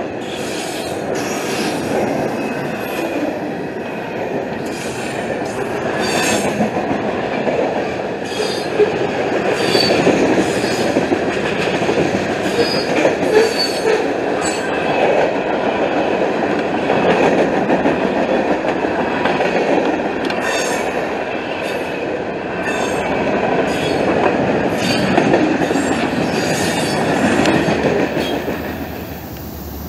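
Freight train cars rolling past close by: a steady rumble of steel wheels on the rail, clattering over the joints, with brief high wheel squeals now and then.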